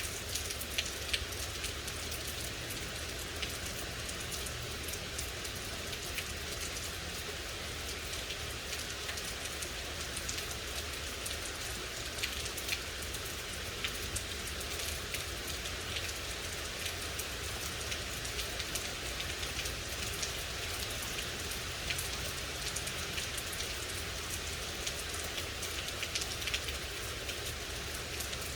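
Steady rain falling on a surface, a constant hiss with individual drops ticking through it and a low rumble underneath.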